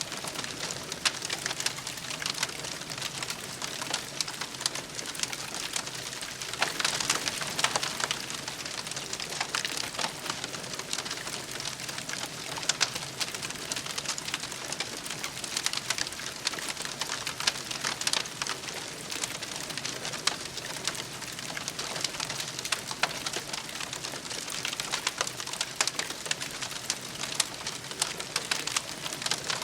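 Wood campfire burning, with a steady hiss and a continual crackle of sharp pops and snaps.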